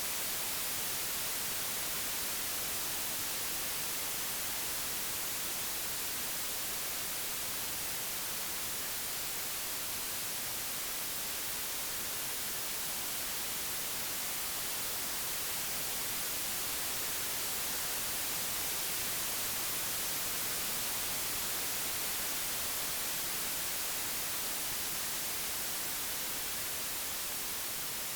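Computer-generated white noise: an even, steady hiss with no tones or events, its level swelling and easing slightly.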